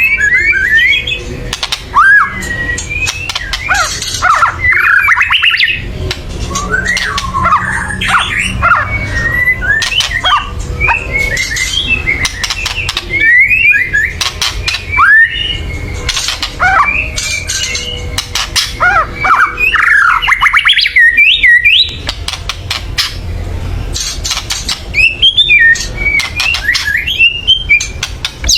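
White-rumped shama (murai batu) giving loud, harsh, rapid rattling and chattering calls mixed with quick gliding notes, in bursts separated by short pauses.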